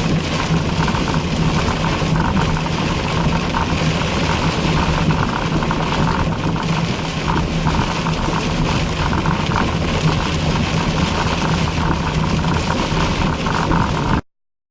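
Car engine and road noise heard from inside a car driving fast, a steady drone with a low hum. The sound cuts out completely for about half a second near the end.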